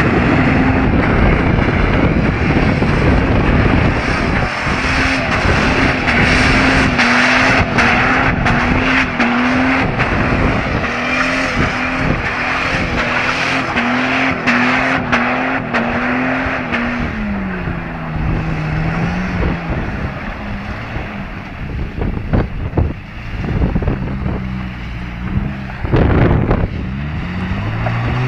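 Car engine held at high revs while the car drifts on a wet road, its pitch wavering up and down as the throttle is worked, over a steady hiss of spinning tyres on wet asphalt. About two-thirds of the way through the revs drop, and near the end they climb again.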